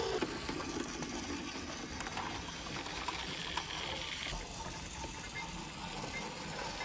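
Water flowing and splashing steadily over a toy layout's rocks and waterfall, with a few light clicks.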